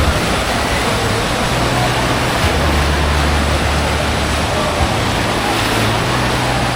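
Steady rushing water noise, with wind buffeting the microphone in low rumbles that come and go, and faint distant voices.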